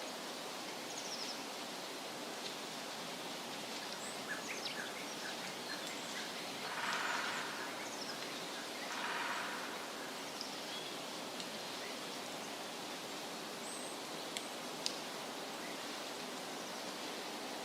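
Steady wind rustling through the leaves of woodland trees, with scattered short, high bird chirps. Two louder swells of rustling come about seven and nine seconds in, and a sharp tick sounds near the end.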